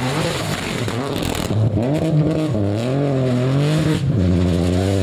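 Rally car engine at high revs on a stage, its pitch swinging up and down with throttle and gear changes. It drops briefly about four seconds in, then climbs steadily.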